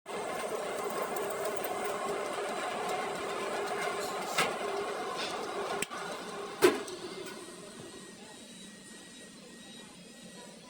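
A machine running steadily with a mechanical hum, then a sharp click about two-thirds of the way in, after which the running sound gradually fades down.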